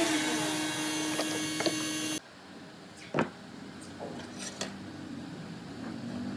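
An electric power tool runs with a steady whine, then cuts off abruptly about two seconds in. Quieter handling sounds on wood follow, with one sharp knock about a second later.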